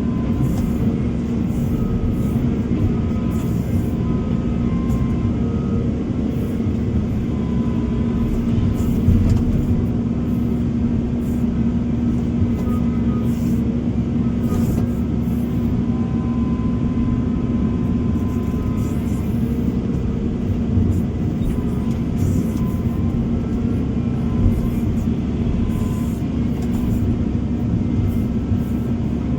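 Heavy diesel earth-moving machinery running steadily: a constant low engine drone, with short faint whining tones now and then.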